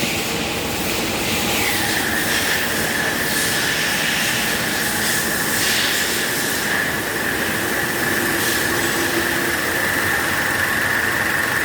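2016 Hyundai Santa Fe running, a steady mechanical rush with a high whine that drops slightly in pitch about two seconds in, then holds steady.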